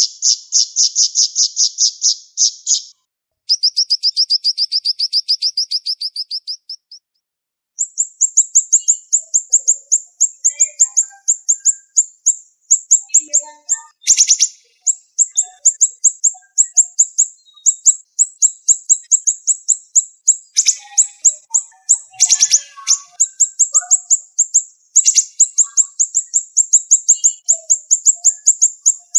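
Siri-siri songbird singing fast, tightly packed rapid-fire runs of short high notes, about ten or more a second. The runs break off briefly twice near the start, then go on almost without a pause.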